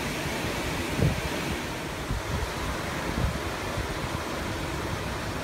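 Steady rain falling, an even hiss, with wind buffeting the microphone in low gusts about a second in and again past three seconds.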